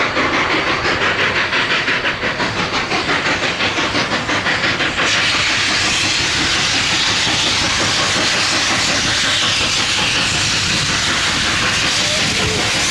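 Coal-fired steam locomotive working, its exhaust chuffing rapidly at about four to five beats a second; about five seconds in the beat gives way to a steady hiss of steam.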